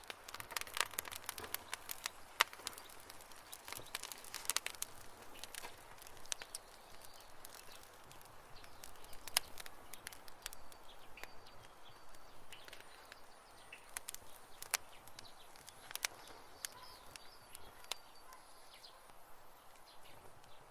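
Campfire of burning wood crackling: irregular sharp pops and snaps over a soft hiss, thickest in the first few seconds. A few faint short chirps come in during the second half.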